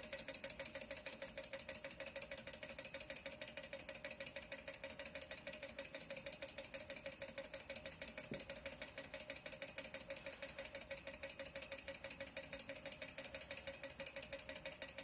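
Small low-temperature-difference Stirling engine running steadily on a warm jar, its moving parts making a fast, even ticking, with a steady tone alongside.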